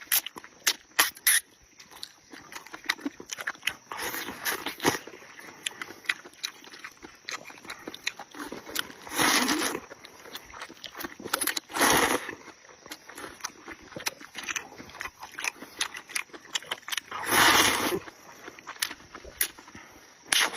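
Close-miked eating of rice noodles: loud slurps of about a second, roughly every few seconds, with wet lip-smacking and chewing clicks in between.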